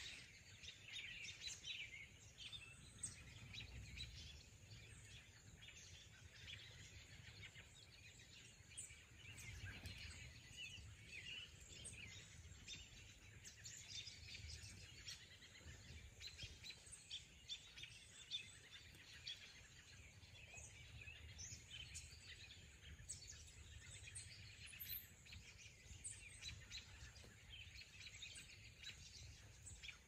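Faint birdsong: wild birds chirping and calling in short, high notes, scattered all through, over a low background rumble.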